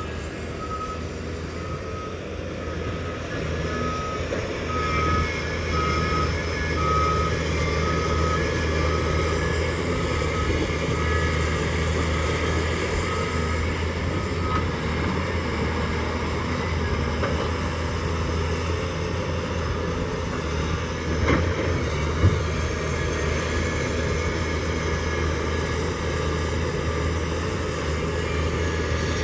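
Heavy diesel mining machinery running steadily, with a reversing alarm beeping at an even pace, a little faster than once a second, until it stops about halfway through. Two sharp knocks come about two-thirds of the way in.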